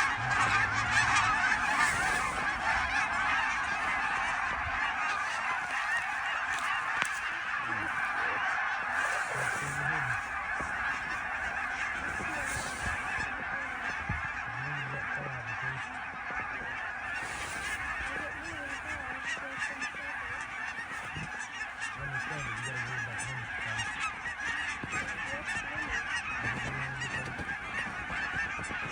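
A huge flock of geese honking all at once, a dense, unbroken din of overlapping calls. It is the sound of a flock tornadoing, spiralling down to land.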